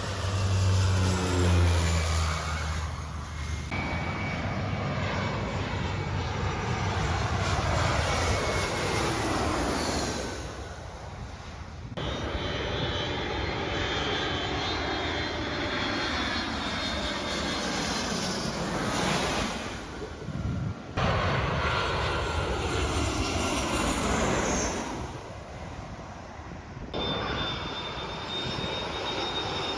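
Airliners flying low overhead on final approach, one after another, each engine noise swelling and then sliding down in pitch as the plane passes. The sound changes suddenly several times between passes.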